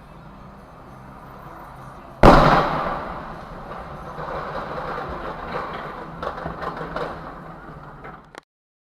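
A vehicle crash: a low steady hum, then about two seconds in a sudden loud impact followed by a long noisy clatter that slowly dies away. A few sharp knocks come near the end, and the sound cuts off abruptly.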